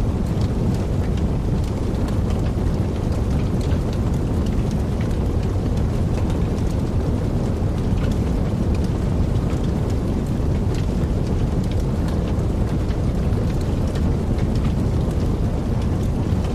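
Wood fire burning in a fireplace: a steady low rush of flame with many small crackles and pops scattered throughout.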